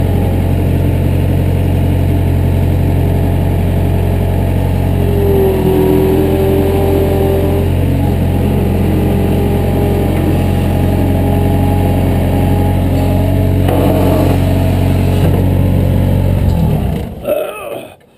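Bobcat skid-steer loader engine running steadily at a constant speed, with a higher whine that wavers up and down now and then, then shut off near the end, the sound dying away quickly.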